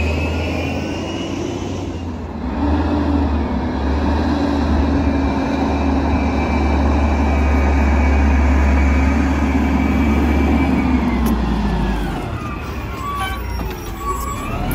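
Diesel engine of a Volvo WX garbage truck revving and held at speed, its pitch sagging about twelve seconds in and climbing again near the end.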